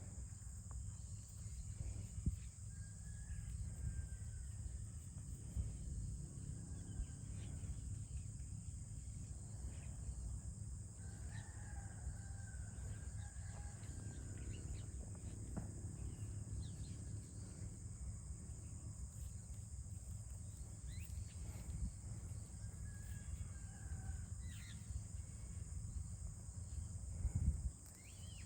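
A rooster crowing faintly a few times, the clearest crow about halfway through, over a steady high insect drone and a low rumble of wind.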